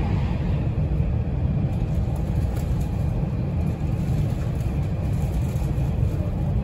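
Running noise inside a JR West 225 series 5000 commuter train car: a steady low rumble of the wheels and running gear on the track at speed.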